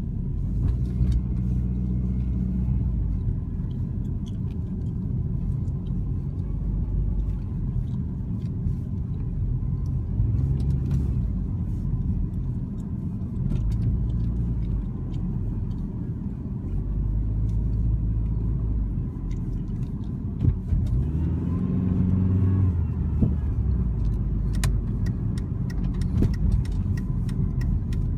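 2003 Dodge Neon SX's 2.0-litre four-cylinder engine running, with a faint steady whine over the engine rumble. The engine note swells briefly about twenty-one seconds in.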